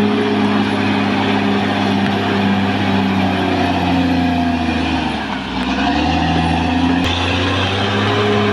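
Caterpillar D6R XL bulldozer's diesel engine running steadily. Its pitch dips briefly about five seconds in and then comes back up, and there is one sharp click about seven seconds in.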